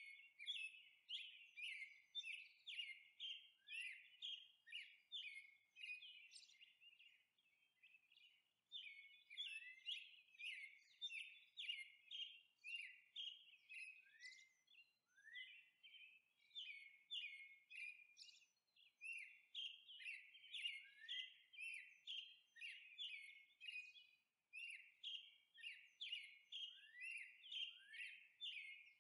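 Faint birds chirping in quick, repeated chirps, about two a second, with short breaks about eight seconds in and near the end.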